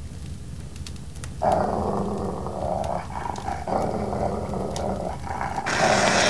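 Growling in three or four long rough stretches, starting about a second and a half in, ending in a harsh hissing rasp near the end.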